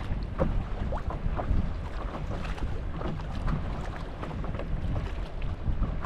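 Wind buffeting the microphone, with choppy lake water splashing and lapping against a paddle board.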